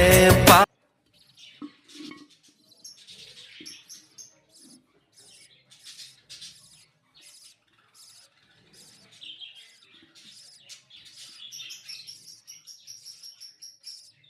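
A song with singing stops abruptly just under a second in. After that, budgerigars chirp in a faint, continuous run of short, high chirps.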